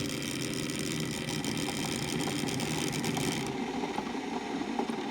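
Bunn Trifecta MB brewer running its turbulence cycle, a steady mechanical drone as air is forced into the coffee in the brew chamber. A high hiss in it cuts off about three and a half seconds in.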